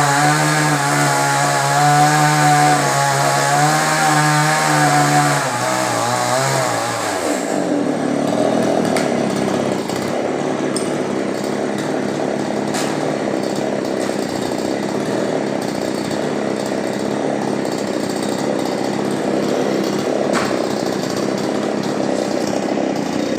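Chainsaw engine running at high revs. About seven seconds in its pitch drops and the sound turns rougher as it bogs under load cutting into coconut wood. It stops abruptly at the end.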